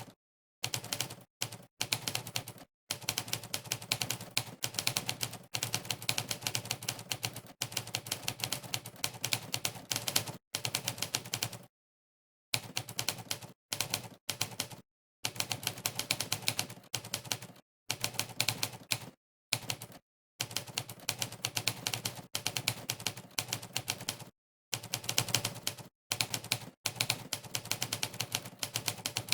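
Monkeytype's typewriter keypress sound effect, one clack per key, rattling off in rapid runs at fast typing speed. The runs last a few seconds each and break off into short dead-silent pauses.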